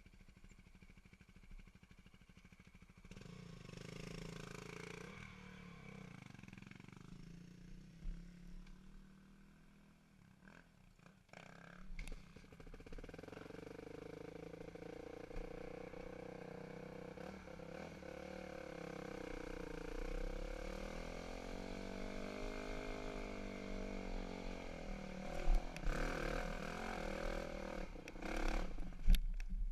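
Dirt bike engine running and revving, its pitch rising and falling, with sharp knocks and clatters near the end.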